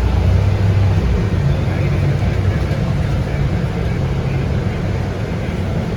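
Scania K230UB bus's 8.9-litre five-cylinder DC9 diesel engine running with a steady low rumble, heard from inside the bus; the rumble eases slightly after about a second.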